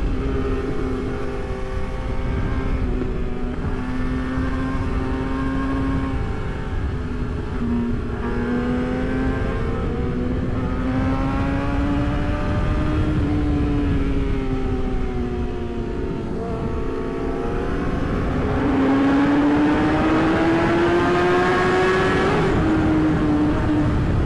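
Yamaha R6's inline-four engine running under way, its pitch rising and falling with the throttle, climbing steadily near the end and then dropping at a gear change, over wind rush on the microphone.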